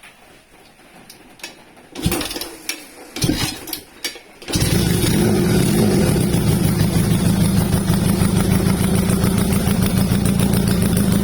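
Honda CB92's 125 cc four-stroke parallel-twin engine, partway through restoration, turning over in a few short bursts, then catching about four and a half seconds in and running steadily.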